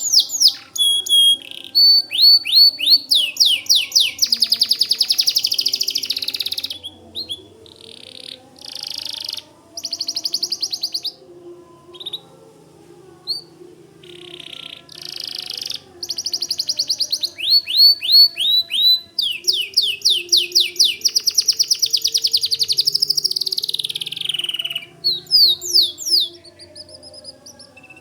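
White domestic canary singing: long rolling trills of fast repeated chirps, broken by a stretch of shorter, choppier phrases in the middle.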